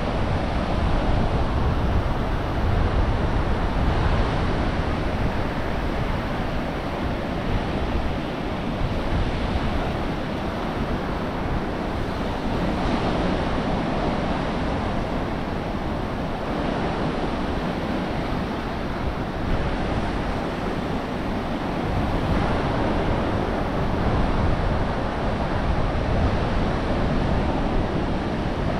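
Ocean surf washing on a beach, an even rush that swells and eases, with wind rumbling on the microphone.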